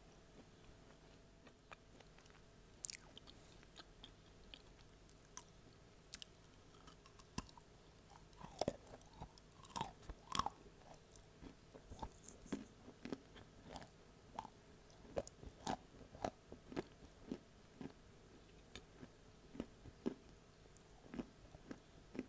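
A person biting and chewing chunks of edible clay close to an earphone microphone: sharp crunches and crackles, sparse at first, thickest in the middle, then thinning out.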